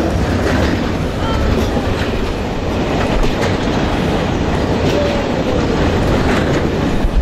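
Passenger train running along the track, heard from on board: a steady heavy rumble of the wheels with faint clicking over the rail joints.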